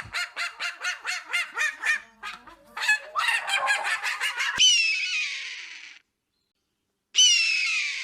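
Domestic fowl calling: a quick run of short repeated calls, about five a second, then two longer calls that fall in pitch and cut off abruptly.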